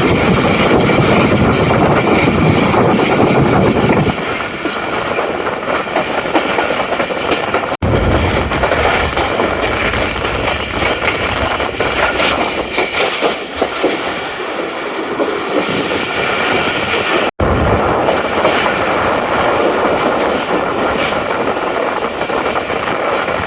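Passenger train running on the rails: a steady loud rumble and rattle of the moving train, with faint high tones held over it. The sound breaks off abruptly for an instant twice, about eight and seventeen seconds in, where the footage is cut.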